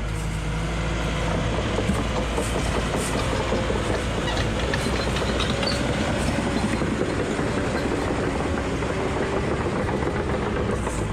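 Tracked skid steer (compact track loader) working dirt: the diesel engine runs steadily under load, with the clatter and rattle of the machine and its tracks and a faint steady hydraulic whine.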